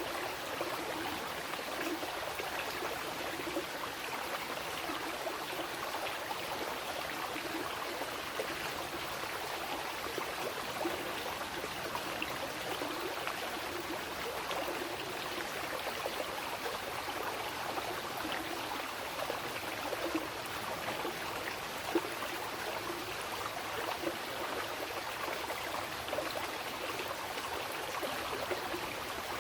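Mountain river running steadily, an even rush of water over rocks with small splashes and gurgles through it.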